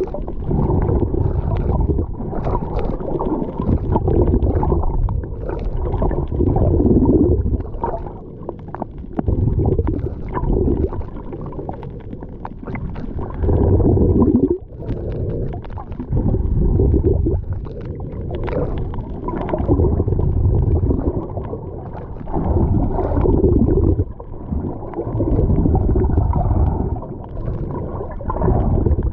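Sea surf rushing at the shore, a low rumbling wash that swells and eases every two to three seconds.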